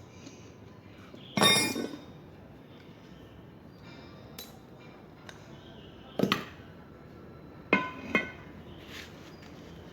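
Metal striking steel parts, four sharp clanks that ring briefly: the loudest about a second and a half in, then three more between about six and eight seconds.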